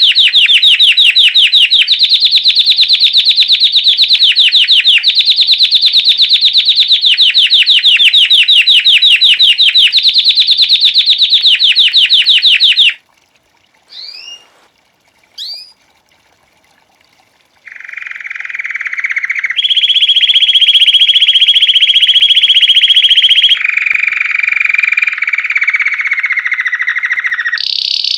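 Domestic canary singing: fast, high trills of rapidly repeated notes in phrases of about a second and a half each. After about 13 s there is a pause of a few seconds broken by two short rising chirps. The song then resumes with steadier rolled tours that change pitch every few seconds, one of them slowly falling.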